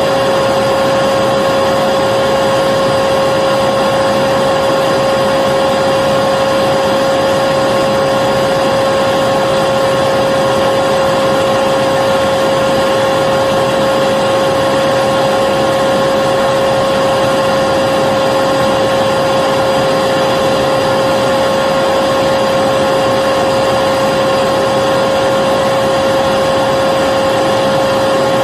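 Vacuum cleaner running steadily, a constant whooshing motor noise with a strong even hum.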